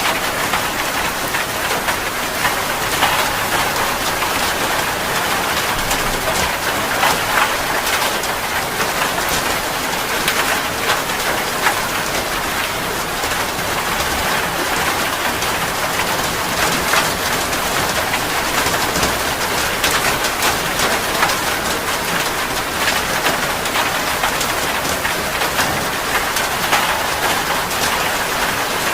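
Steady rain falling, a dense even hiss of many drops striking a surface, with small louder drop hits scattered through it.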